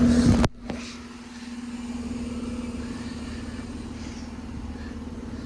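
Outdoor air-conditioner condenser unit running with a steady hum. About half a second in, a louder low rumble cuts off suddenly and the hum carries on quieter.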